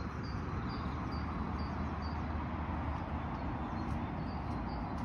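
A small bird chirping over and over, short high notes about twice a second, over a steady low background rumble.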